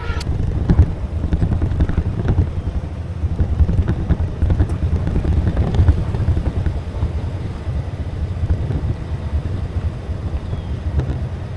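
A vehicle hauling a loaded livestock trailer, driving along with a steady low engine and road rumble.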